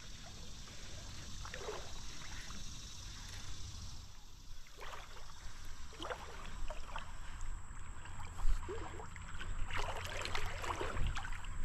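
Creek water splashing and sloshing as a hooked smallmouth bass is fought and led toward the shallows. Scattered short splashes over a steady wash of moving water, busier in the second half.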